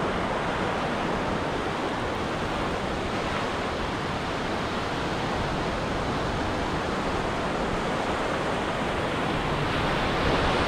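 Ocean surf washing onto a beach: a steady rush of breaking waves that swells slightly near the end.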